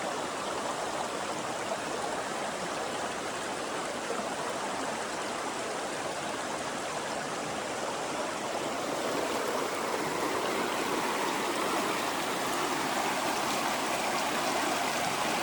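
River water rushing and babbling over rocks in a steady rush, growing a little louder about two-thirds of the way through.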